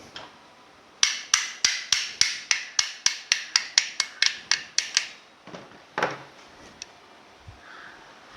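A quick, even run of about fifteen sharp clicks, roughly four a second, from a hand tool at work on a mixer-grinder's motor body during reassembly, followed by a couple of softer knocks.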